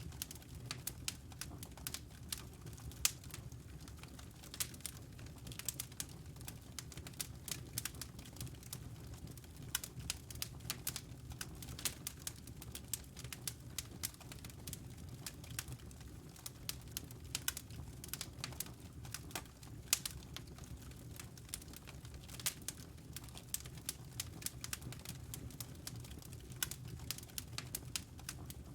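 Wood fire burning in a fireplace: a soft steady rush of flame under irregular, sharp crackles and pops from the burning logs, a few snaps louder than the rest.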